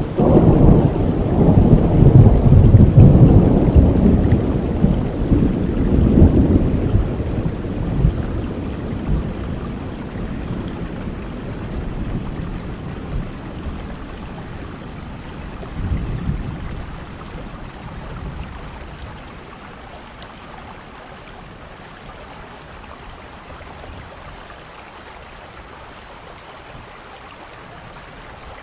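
Thunder rumbling over steady rain: a long low roll, loudest in the first several seconds, dies away, with a smaller rumble about sixteen seconds in, leaving the even hiss of rainfall.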